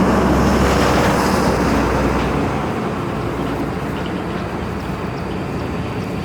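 A motor vehicle running close by, loudest for the first two seconds and then easing off as it moves away.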